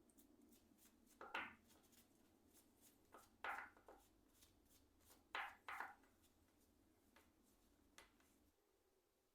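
Faint handling noise from work on keyboard parts: four short scraping strokes and a few light clicks, over a low steady hum that stops near the end.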